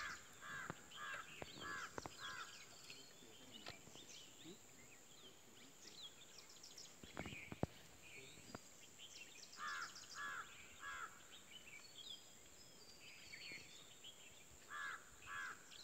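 Wild birds calling: a short call of three or four notes, repeated three times, among scattered higher chirps, over a steady high hiss.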